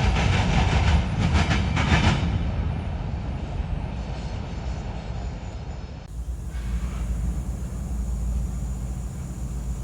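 Freight train rolling past, its wheels clacking rhythmically over rail joints for the first two seconds before the sound fades. About six seconds in, a sudden change to a steady low rumble.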